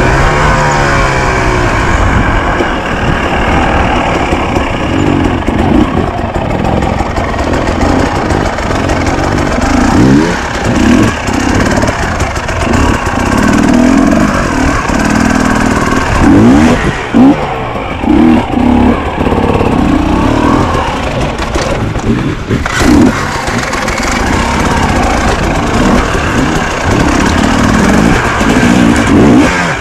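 Enduro motorcycle engine being ridden hard, revving up and down again and again as the throttle is opened and closed.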